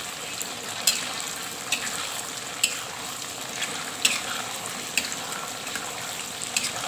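Tofu pieces frying in hot oil in a wok: a steady sizzle with a sharp pop about once a second.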